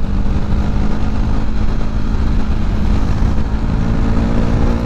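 KTM RC 390's single-cylinder engine with a loud modified exhaust, pulling steadily in fifth gear at speed, its pitch creeping slowly upward. A heavy low rumble of wind on the microphone runs under it.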